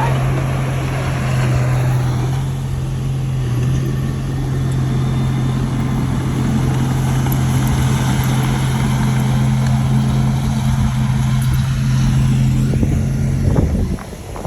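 Heavy-equipment diesel engine running loudly at a steady speed, with a constant low drone, until it cuts off suddenly near the end.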